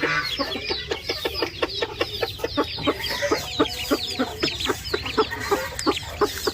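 A broody hen clucking among newly hatched chicks, whose rapid high peeps come thick and overlapping throughout.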